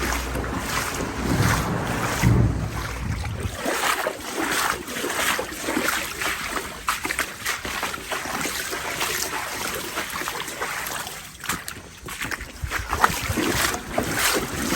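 Legs wading through knee-deep floodwater, sloshing and splashing with each stride, with wind rumbling on the microphone for the first few seconds.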